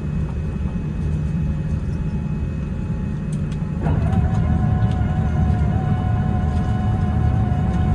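Low, steady rumble inside the cabin of a Boeing 787-10 taxiing after landing. About four seconds in, it gets louder and a steady high whine comes in and holds.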